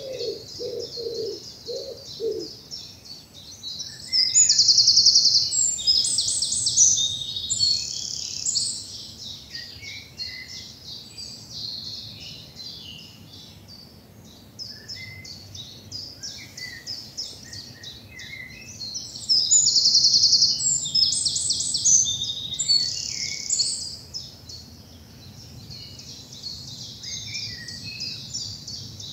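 Several songbirds singing, with a loud, fast, high song rising twice above the rest, about 4 and 19 seconds in. A few low cooing notes sound in the first two seconds.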